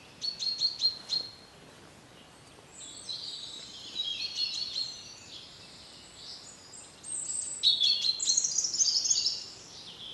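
Woodland songbirds singing several phrases of quick, high repeated notes and trills, with short pauses between phrases.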